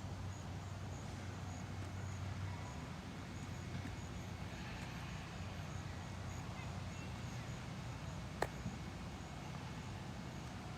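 Low steady hum of an idling engine, such as an antique tractor, over outdoor background noise. The hum weakens after about two and a half seconds, and there is a single sharp click about eight seconds in.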